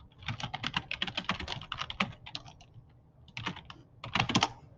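Typing on a computer keyboard: a fast run of keystrokes for about two seconds, then two short bursts of keys near the end.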